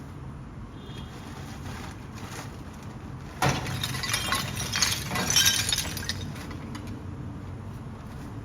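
Heavy truck engine running steadily. About three and a half seconds in, a loud clattering rush of rattles and knocks starts suddenly and lasts about two and a half seconds before dying away.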